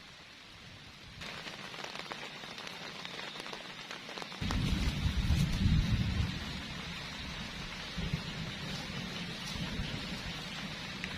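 Heavy rain falling steadily, getting louder about a second in. About four and a half seconds in, a loud low rumble comes in suddenly and lasts about two seconds.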